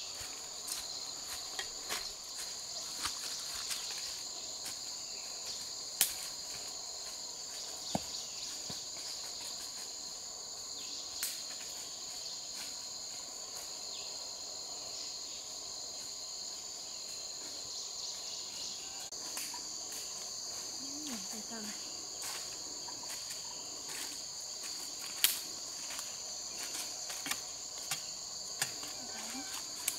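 Steady high-pitched chorus of insects chirring without pause, with scattered sharp clicks and knocks, the loudest about six, eight, eleven and twenty-five seconds in.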